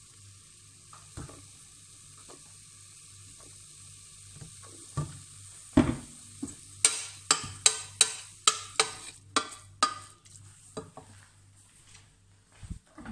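Shredded chicken filling sizzling in a stainless steel pot. About seven seconds in, a wooden spatula stirs it, knocking against the pot about three times a second for a few seconds.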